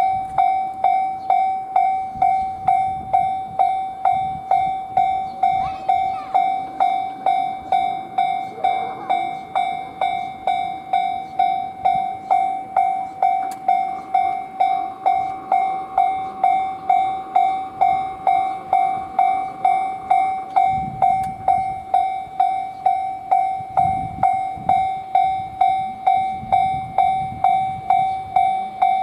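Railway level-crossing warning bell ringing, one ringing electronic tone repeating about one and a half times a second, the signal that a train is approaching. Faint low rumbles sit underneath.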